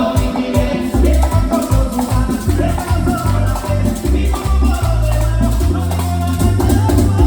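Merengue band playing live, with a güira's metal scrape keeping a steady, even rhythm over heavy bass notes and a melodic line.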